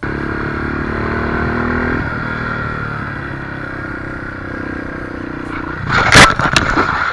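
Motorcycle engine running steadily at speed under wind noise, then about six seconds in a loud crash: a sudden impact followed by a scraping clatter.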